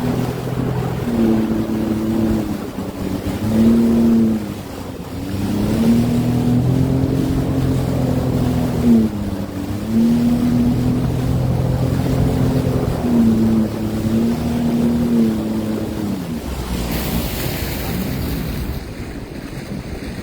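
Sea-Doo Fish Pro personal watercraft engine running on the water, its pitch dipping and picking up again several times as the throttle is eased and reopened, over wind and water noise. A brief hiss of wind or spray comes near the end.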